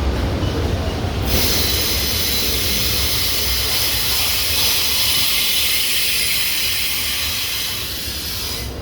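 Norfolk Southern train rolling past with a low rumble; about a second in, a loud high wheel squeal sets in over it and holds until it cuts off suddenly at the end.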